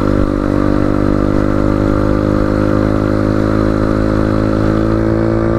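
Motorcycle engine running at a steady speed, its pitch and loudness holding even.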